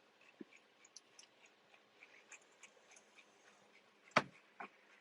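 Faint, scattered clicks of a computer mouse, with one louder click about four seconds in.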